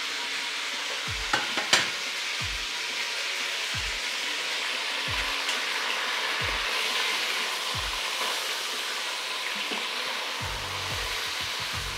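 Meat and smoked fish sizzling steadily in hot oil in a stainless steel pot while being stirred with a wooden spoon, with two sharp clicks about a second and a half in.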